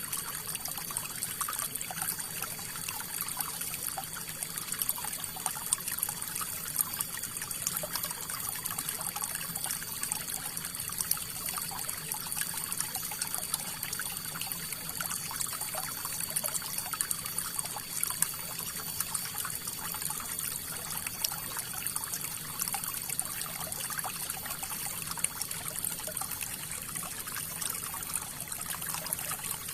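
Flowing river water: a steady rush with many small splashing trickles that never lets up.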